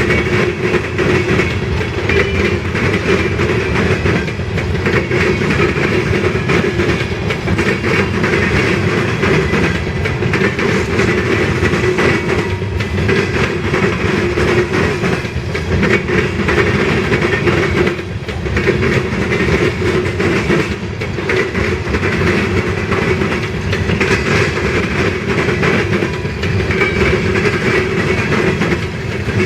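Freight train cars rolling past at steady speed: a continuous rumble of steel wheels on rail with clickety-clack over the rail joints and a faint steady squeal.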